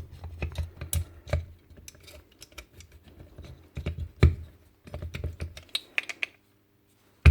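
Small plastic and metal nail-gun parts being handled and fitted together by hand: irregular light clicks and taps, with a louder knock about four seconds in, stopping shortly before the end.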